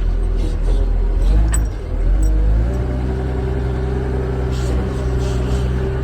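CAT wheel loader's diesel engine running, with a heavier rumble for the first couple of seconds that settles into a steady idle about two and a half seconds in.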